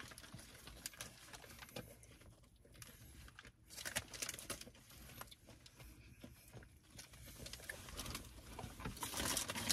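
Faint, close chewing of a Whopper burger: soft wet clicks and smacks of a mouth eating, a little louder near the end.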